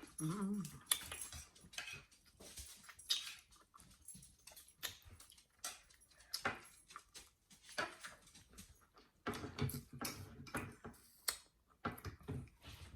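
Quiet scattered clicks and taps of eating at a table, with a short pitched whine from a pet dog about half a second in.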